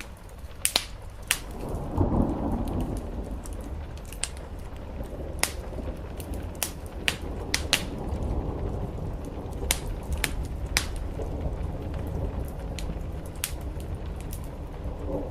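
Steady rain drumming on a roof, with a wood fire crackling: sharp, irregular pops scattered throughout. A low rumble swells about two seconds in.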